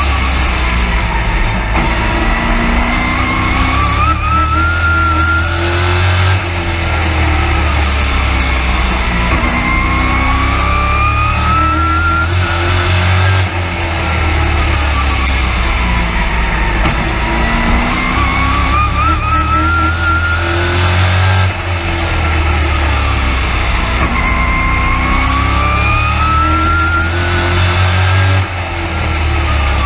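A race truck's engine heard from inside the cab during a race. It rises steadily in pitch down each straight, then drops off as the driver lifts for the turns, repeating about every seven to eight seconds.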